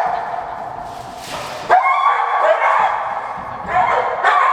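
A dog giving long, high-pitched whines, one after another: one trails off early, a new whine starts under two seconds in and another near the end, with a short noisy huff between them.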